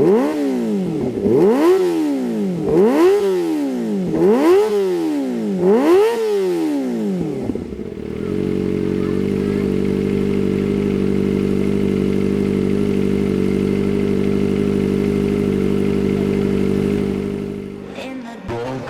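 Kawasaki ZX-25R's 250 cc inline-four engine through an aftermarket Shijiro racing exhaust, blipped five times in quick revs about a second and a half apart, then settling into a steady idle that dies away near the end.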